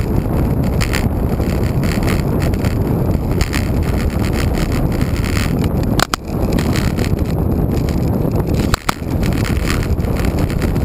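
Wind rushing over the microphone of a road bike rider, with tyre and road noise underneath: a steady low rumble. Two short sharp clicks come about six and nine seconds in.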